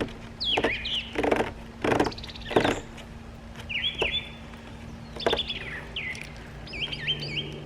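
Birds chirping, with repeated short rising and falling calls. Several short sharp sounds come in the first three seconds and once more around the middle, and these are louder than the birds.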